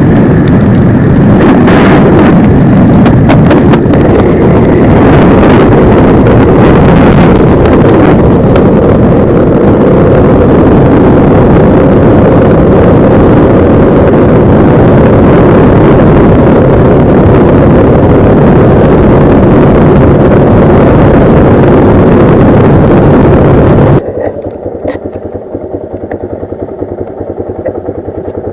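Yamaha Lander 250 motorcycle being ridden: loud, steady riding noise from the engine mixed with heavy wind rushing over the microphone, with a few sharp knocks in the first several seconds. About 24 seconds in it drops abruptly to a much quieter, similar noise.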